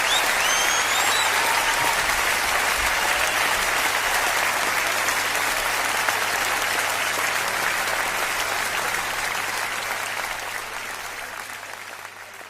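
Large audience applauding, with a few whistles in the first second; the applause fades out near the end.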